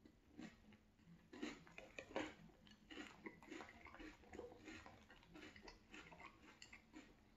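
Faint, close-miked chewing of crunchy French Toast Crunch cereal in milk: irregular small crunches and wet mouth sounds, several a second.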